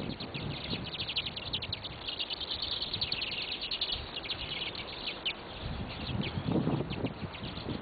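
Many small birds chirping at once in a dense, continuous run of short, high chirps. A low, muffled noise joins them about six seconds in.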